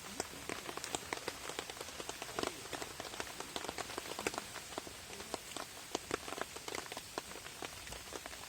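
Rain falling on a camping tarp: many irregular drop taps over a steady hiss.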